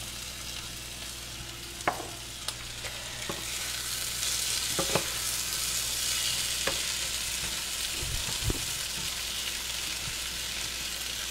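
Oil sizzling steadily in two skillets: bite-size chicken pieces frying in oil and vegetables sautéing. The sizzle grows a little louder about four seconds in, and a utensil stirring the vegetables gives a few light clinks against the pan.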